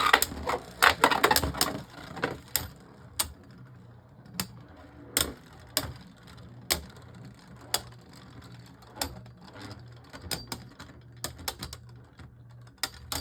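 Two Beyblade Burst tops spinning and clashing in a plastic stadium: sharp plastic clacks, crowded together for the first couple of seconds after launch, then single hits every half-second to a second.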